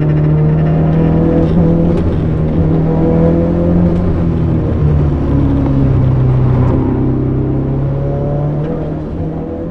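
A car engine runs steadily as the car drives along a wet road, with its pitch drifting up and down a little. The sound eases off toward the end.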